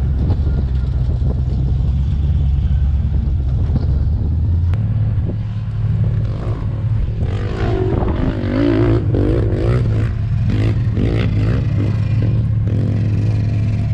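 An off-road vehicle's engine running and revving, with wind rumbling on the microphone. A cluster of sharp knocks comes in the second half.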